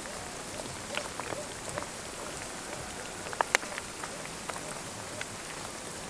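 Rain falling steadily, with scattered individual drops ticking close by; two louder drops come about three and a half seconds in.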